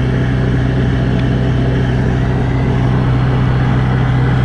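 An engine running steadily at constant speed: a loud, low, even hum that does not change in pitch.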